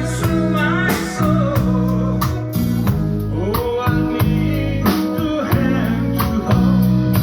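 Blues band playing live: guitar over bass and a drum kit keeping a steady beat, with a voice singing.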